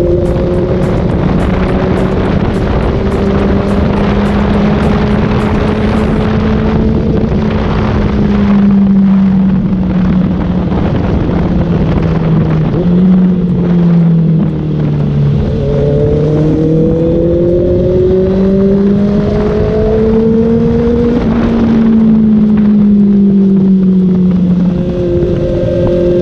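Kawasaki Ninja ZX6R's inline-four engine through an Austin Racing exhaust while riding, its note slowly rising and falling, dropping about halfway through and then climbing again, over steady wind rush.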